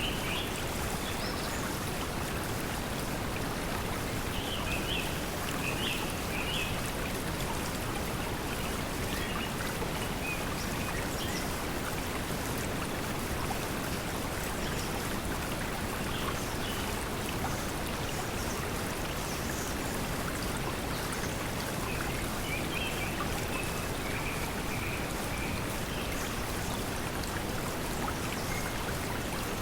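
Steady pink noise mixed with flowing stream water, with bird chirps now and then.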